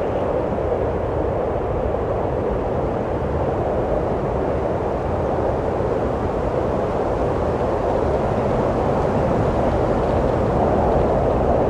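Wind blowing in a steady rush, swelling slightly near the end.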